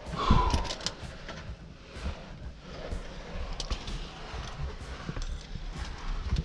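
Caving gear clicking and knocking, with low thumps and scrapes, as a caver descends a rope through a narrow rock crack. A short vocal sound comes just after the start.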